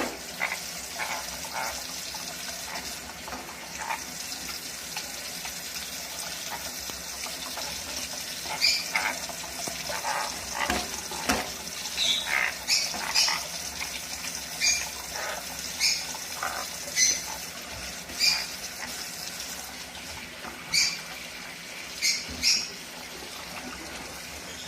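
A pet parrot giving a string of short, sharp, high-pitched chirps and squeaks over a steady hiss like running water, with the calls coming thick and fast after the first few seconds.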